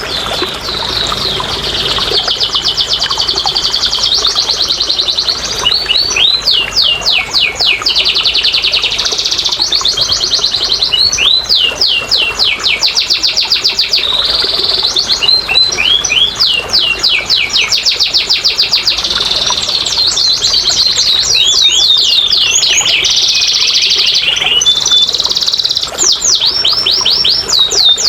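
Domestic canary singing a long continuous song of fast trills and rolling repeated notes, switching to a new phrase every second or few.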